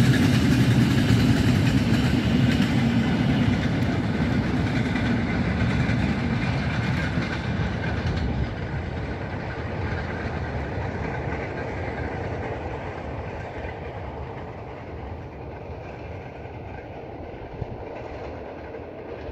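Freight train of covered wagons rolling past on the rails, then dying away gradually as the last wagons pull off into the distance.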